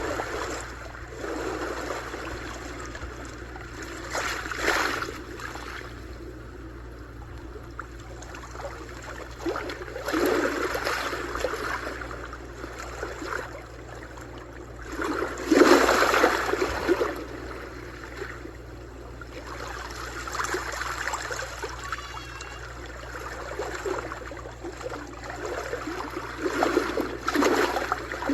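Sea waves washing onto a shore, swelling and breaking about every five to six seconds, the largest one about halfway through, over a steady low rumble.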